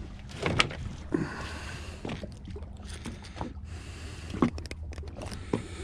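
A steady low rumble with half a dozen short, sharp knocks scattered through it: the small noises of fish handling and gear on a fishing boat.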